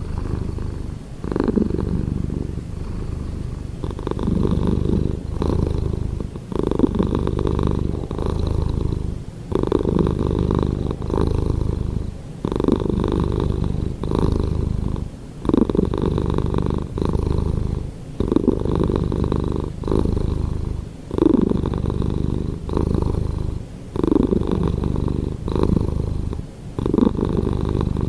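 Domestic cat purring close up, a steady rumble that swells and eases with each breath, about once every three seconds.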